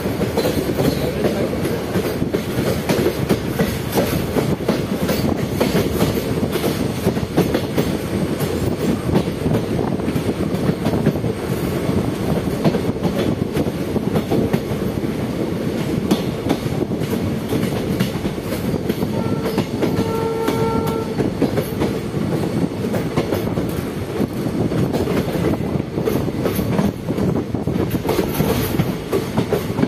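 Train running on the rails: a steady rumble with the clickety-clack of wheels over rail joints. A short train horn blast sounds about two-thirds of the way through.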